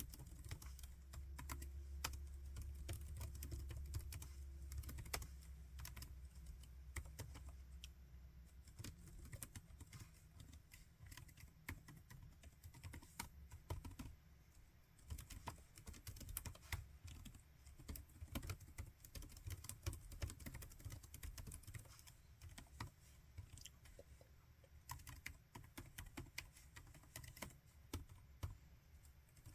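Laptop keyboard being typed on steadily, quick irregular key clicks with short pauses. A low hum sits under the typing for the first several seconds, then fades out.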